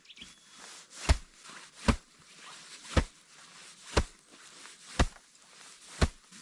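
Six sharp knocks or blows, evenly spaced at about one a second.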